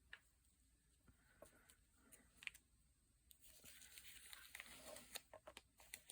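Faint handling of paper and craft pieces on a desk: scattered small clicks and soft rustling, busier from about halfway through.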